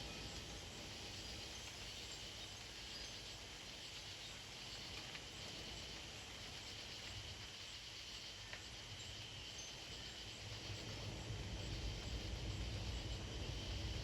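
Steady high-pitched droning of an insect chorus, with wind rumbling on the microphone that grows stronger over the last few seconds.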